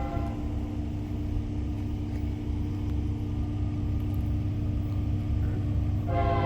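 CSX GE AC4400CW diesel locomotives rumbling as they approach, with a steady engine drone. Their multi-chime air horn cuts off just after the start and sounds again near the end.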